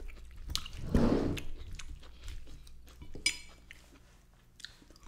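Close-up chewing of a mouthful of mixed chicken, rice and salad, with wet, squishy mouth sounds loudest about a second in and small clicks throughout. A short, high ringing clink sounds a little past three seconds.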